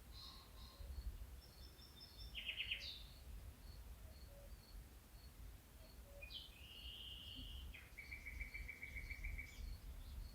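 Birds calling over a faint insect chirping that repeats about twice a second. A short trill comes about two seconds in, a longer call about six seconds in, and a quick trill runs for over a second near the end, over a low background rumble.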